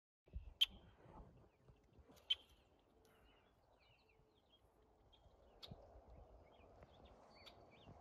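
Evening birds calling: scattered short, high chirps and calls. Two sharp chirps in the first few seconds are the loudest, over a faint low rumble.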